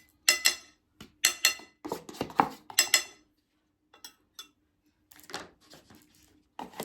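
Cutlery and dishes clinking as food is handled: a handful of sharp, ringing clinks in the first three seconds, then a few faint ticks and rustles.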